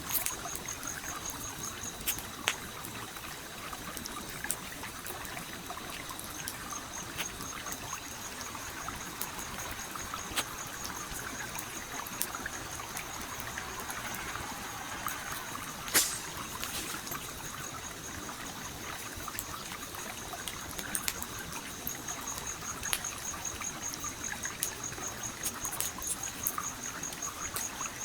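Stream water trickling and flowing steadily while a campfire crackles with scattered sharp pops, one loud pop about halfway through. A fast, high-pitched pulsing chirp runs through most of it.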